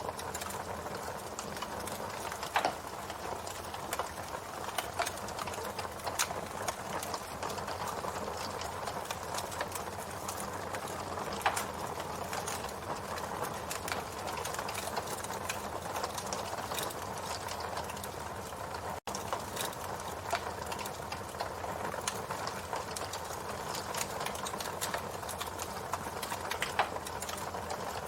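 Campfire burning: a steady hiss of flames with frequent sharp crackles and pops from the burning wood, broken by a momentary dropout about two-thirds of the way through.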